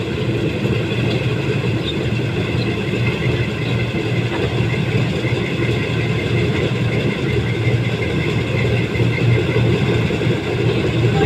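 Rice combine harvester running steadily under load, its diesel engine humming continuously with mechanical clatter from the machine.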